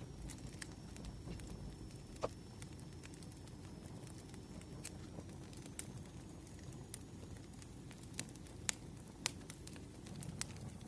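Campfire crackling: irregular sharp pops and snaps over a low, steady rumble of burning wood, with a few louder pops about two seconds in and near the end.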